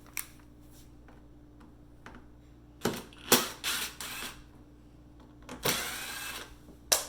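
T15 Torx screws being taken out of the top edge of a dishwasher door: scattered clicks of driver on screw and metal, with two stretches of short, noisy rasping about three and six seconds in.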